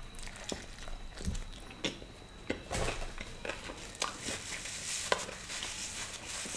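Close-miked chewing of a big bite of pizza, with scattered small crackles and wet mouth clicks. In the second half a paper napkin rustles against the mouth.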